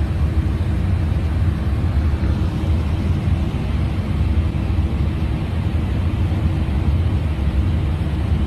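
Steady low rumble of an airliner flight deck in cruise, the airflow and engine noise of the aircraft, with a faint steady hum over it.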